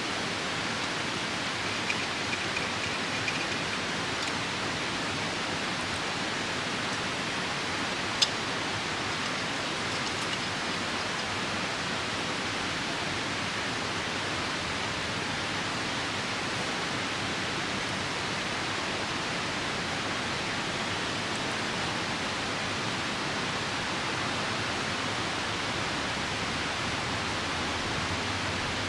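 Steady rush of a nearby river mixed with rain, with a few small crackles from a wood campfire and one sharp pop about eight seconds in.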